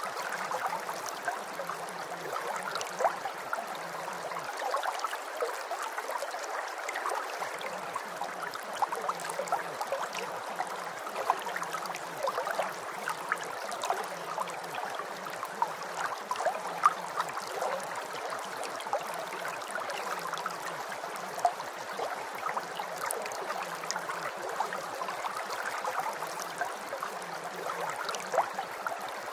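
Rain sound: a steady hiss of rainfall with many small, irregular patters and drips.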